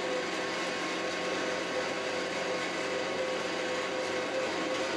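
Kioti RX7320 tractor's diesel engine running steadily, an even hum with a constant whine over it.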